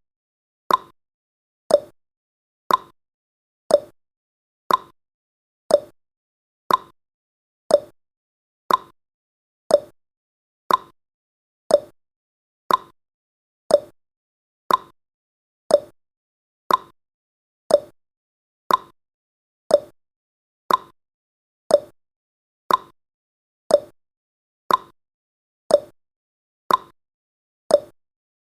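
Clock-style ticking sound effect of a countdown timer: short, sharp ticks, evenly spaced at one per second.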